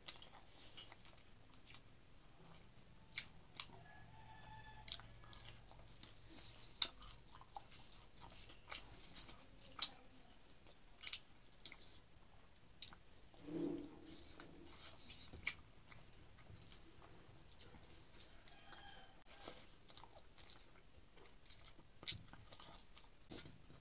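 A person chewing a mouthful of rice and dal close to the microphone: soft, irregular chewing with sharp lip-smacking clicks, and a brief hum a little past halfway.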